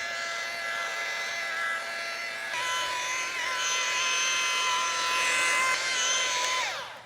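Handheld electric polishing machine running a pad over a repaired marble corner, a steady motor whine. About two and a half seconds in the whine changes pitch and gets louder. Near the end the machine is switched off and spins down with a falling whine.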